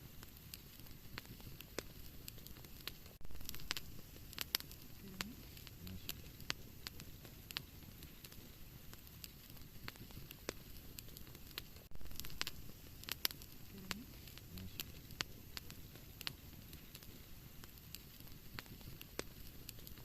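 Wood fire burning in a fireplace, crackling with scattered sharp pops over a steady soft hiss, with a couple of brief denser bursts of crackling.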